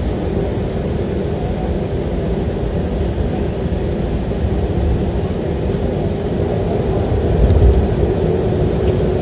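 Boeing 737-300 cabin noise: the CFM56 jet engines and airflow make a steady low rumble, with a faint steady hum tone that grows a little clearer near the end.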